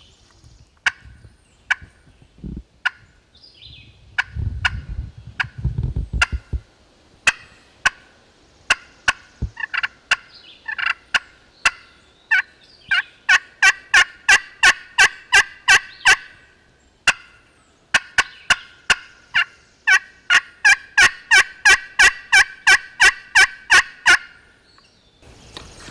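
A hunter's turkey call running yelps to strike up gobblers. Scattered single notes come first, then two long, fast runs of about three yelps a second in the second half.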